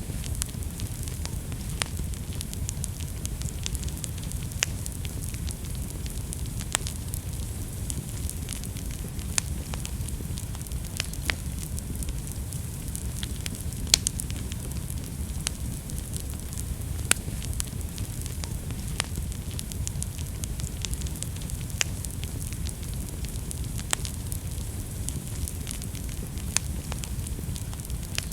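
Wood fire burning in a fireplace: a steady low rumble of the flames with irregular sharp crackles and pops, a few louder snaps every couple of seconds.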